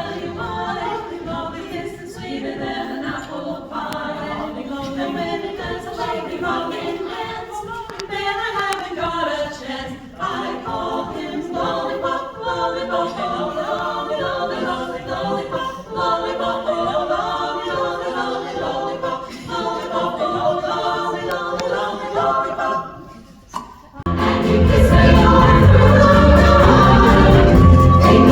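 Women's chorus singing unaccompanied in close harmony. About 24 seconds in, after a short drop in level, a louder song with heavy bass accompaniment begins.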